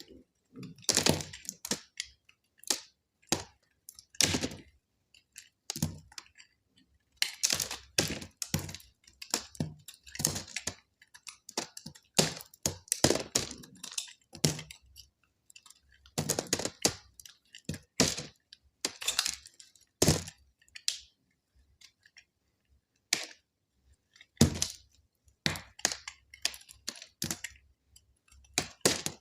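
A blade cutting through dry soap: sharp crackling cuts that come in irregular clusters, with short pauses between them.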